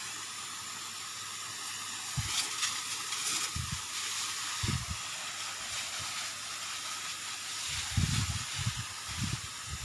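Robotech four-stroke mini power sprayer running, with a steady hiss of spray throughout. Several short, dull low thumps come and go, most of them near the end.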